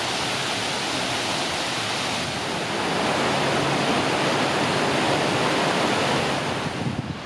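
Steady rush of water falling at Nunobiki Falls. It grows a little louder partway through and thins and drops near the end.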